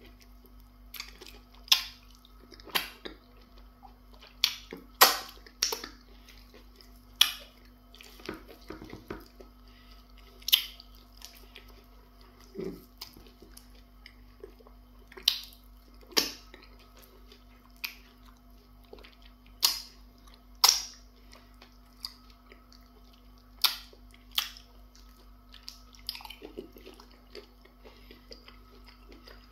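Close-up eating sounds of semo fufu dipped in slimy okra soup and eaten by hand: irregular sharp wet smacks and clicks of lips and mouth while chewing, about one every second or two, over a low steady hum.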